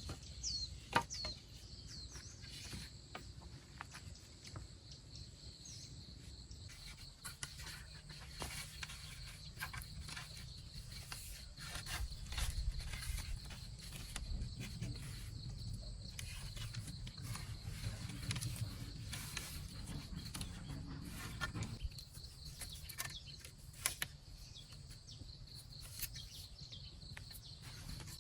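Steady high drone of insects, with a few bird chirps in the first second. Scattered clicks, knocks and rustles of wood being handled sound over it, with a louder knock about 24 seconds in.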